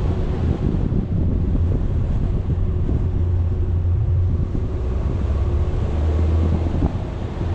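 Wind buffeting the microphone of a camera on a moving vehicle, a dense steady low rumble with a faint steady hum from the vehicle running underneath.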